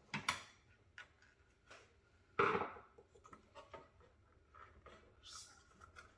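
Clicks, knocks and clatter of a desktop PC's case parts being handled during disassembly, with the loudest knock about two and a half seconds in and a brief scrape a little after five seconds.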